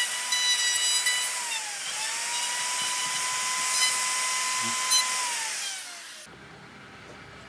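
High-pitched whine of an electric power tool's motor working wood. Its pitch dips briefly about two seconds in, slides down again near the end, then cuts off suddenly.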